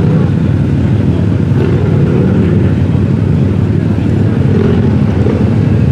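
Off-road buggy or UTV engine running loudly and steadily.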